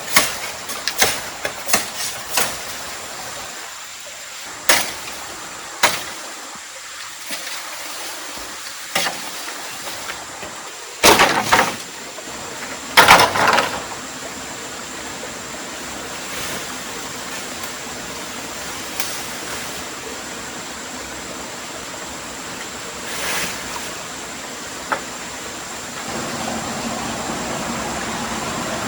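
Steady rushing of water, with irregular sharp knocks and cracks over it, loudest in a double burst about eleven and thirteen seconds in.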